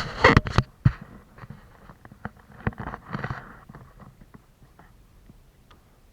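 A quick run of sharp knocks and clicks in the first second, then a smaller cluster of knocks and rustling around three seconds in, fading to a few faint ticks.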